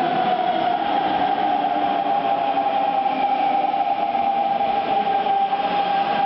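Hanshin 9000 series electric train moving through the station, its motors giving a steady high whine over the running noise.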